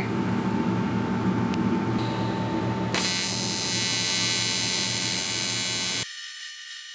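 AC TIG welding arc from a Miller 280DX buzzing steadily while building up weld on aluminium motorcycle crankcases, with a high hiss joining about three seconds in. The sound cuts off abruptly about a second before the end, leaving only a faint hum.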